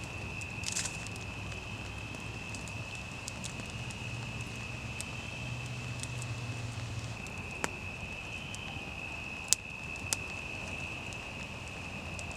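A steady high-pitched tone that is held without a break, over a faint low hum, with a few sharp ticks scattered through.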